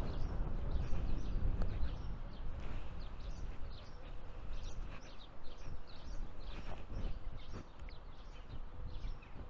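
Small birds chirping and singing, many short calls overlapping through the whole stretch, over a low uneven rumble that is heaviest in the first two seconds.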